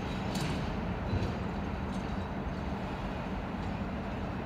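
Diesel locomotive and train rumbling steadily as they roll slowly away along the yard track, with a few faint clicks of wheels over the rails.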